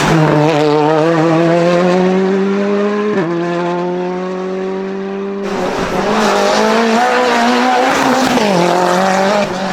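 Hillclimb race car engine pulling hard under acceleration, its revs climbing steadily and dipping sharply at gear changes, once about three seconds in and again near the end.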